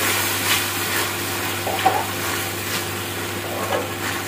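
Oil sizzling steadily under green peas, tomato and green chillies being stir-fried in an aluminium pan, with a wooden spatula stirring and scraping the pan several times.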